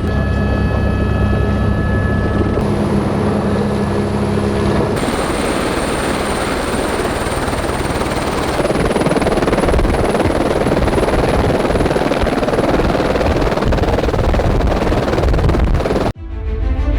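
Helicopter turbine engine and rotor running steadily, with a high turbine whine over a dense rumble; the sound shifts abruptly a few times, then cuts off about a second before the end, where music starts.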